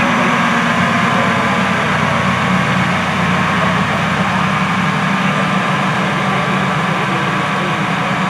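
A vehicle engine idling steadily at an even, unchanging speed.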